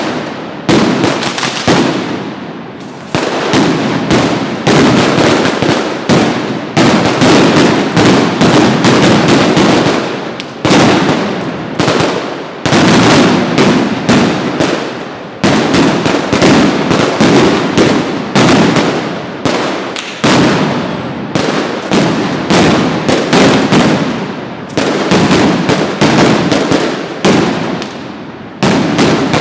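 Mascletà of masclets, ground-level firecracker salutes, going off in very loud rapid strings of bangs, many a second, surging in waves with brief lulls between them.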